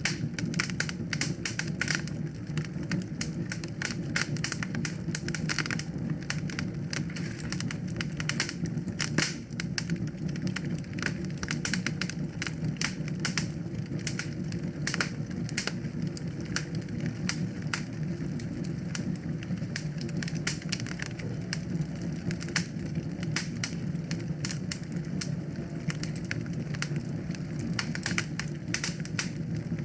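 Wood fire in a fireplace crackling and popping with many rapid, irregular snaps over a steady low rumble of the flames.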